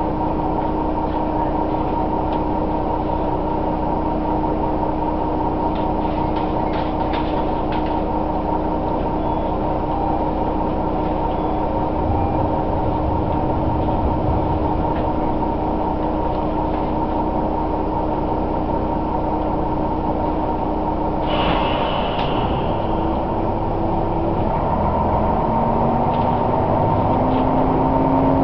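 Diesel railcar heard from inside while running along the line: a steady mix of engine drone and wheels on rails, with a constant whine. About 21 seconds in there is a brief hiss, and from about 24 seconds the engine note rises as the railcar picks up speed.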